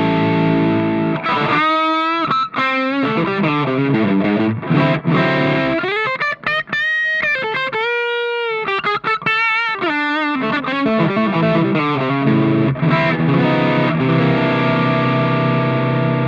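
Electric guitar played through the overdrive section of a Valeton Dapper combination pedal: chords, then a lead line with string bends and vibrato, ending on a chord left ringing. The tone is warm, with a strong analog character.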